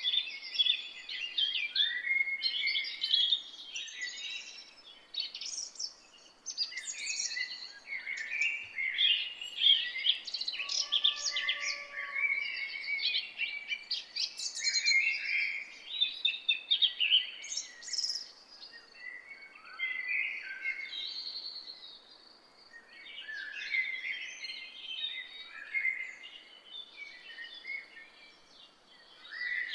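Several forest songbirds singing and chirping at once, quick high calls and trills overlapping, with a few short lulls.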